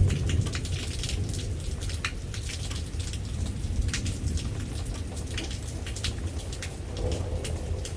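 Steady rain falling, with individual raindrops clicking close by, during a thunderstorm. A low thunder rumble is dying away at the start.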